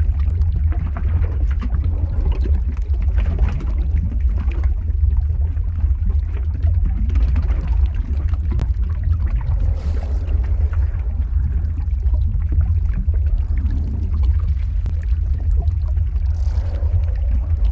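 Lava-flow ambience: a steady deep rumble with scattered crackles and a pouring, gurgling texture over it.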